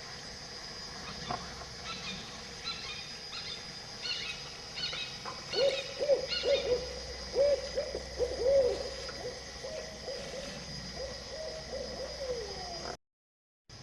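Bird calls over a steady outdoor background: a series of short, higher calls repeated about twice a second, then a longer run of lower, arching notes, each rising and falling.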